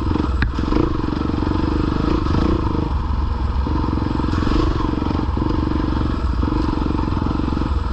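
Dirt bike engine running at low throttle on a rough trail, its note dipping and picking up again with the throttle, with occasional knocks and clatter from the bike over rough ground.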